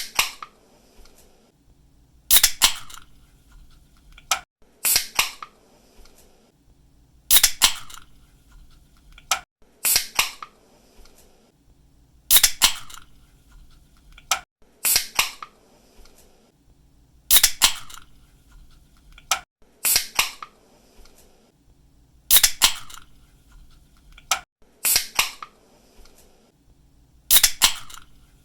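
Aluminium drink can's pull-tab opened again and again, about every two and a half seconds. Each opening is a faint click followed by a sharp crack with a short hiss as the seal breaks.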